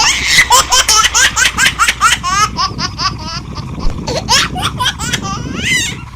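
People laughing hard in quick, loud, repeated ha-ha bursts that thin out over the last few seconds.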